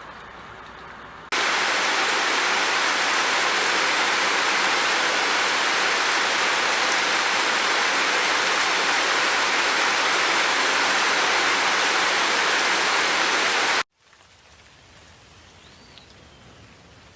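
Heavy, steady rain that starts abruptly about a second in and cuts off suddenly near the end, leaving a much softer ambient hiss.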